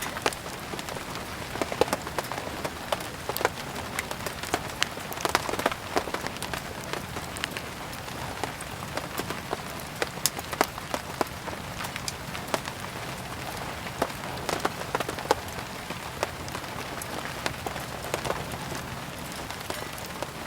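Steady rain hissing, mixed with a wood fire crackling and popping in frequent, irregular sharp snaps.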